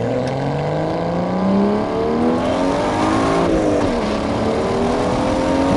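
BMW 335i's N55 turbocharged inline-six accelerating under load, its pitch climbing steadily, then dropping sharply about three and a half seconds in as the manual gearbox is upshifted, and climbing again.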